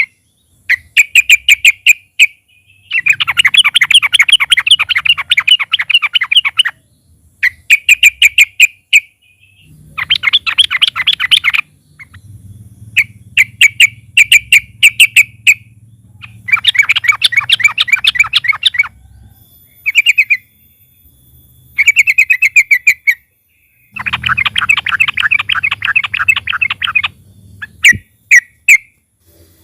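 Yellow-vented bulbul (trucukan) singing loudly in bouts of rapid chattering notes, each bout lasting from under a second to several seconds, with short pauses between them.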